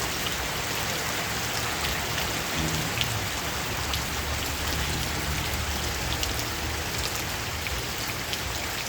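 Steady rain falling, an even hiss with scattered sharp drips of individual drops.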